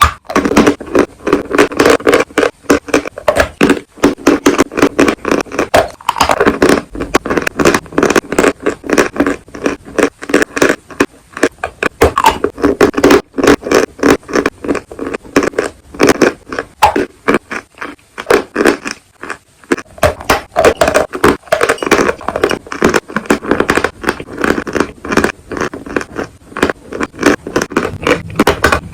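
Close-miked crunching of pieces of chalk and clay being bitten and chewed: a fast, dense run of sharp cracks and crumbling snaps, with short pauses between bites.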